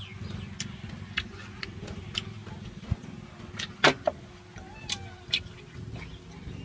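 Close-up eating sounds: chewing and lip smacks on grilled pork, heard as a string of sharp separate clicks, the loudest just before four seconds in, over a steady low rumble.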